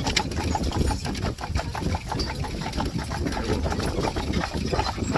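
Horse hooves clip-clopping on a paved road over the steady rumble of the buggy's wheels, heard from aboard the horse-drawn buggy.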